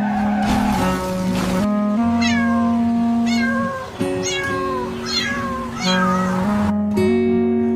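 A cat meowing about five times, each call falling in pitch, over background music with steady held notes.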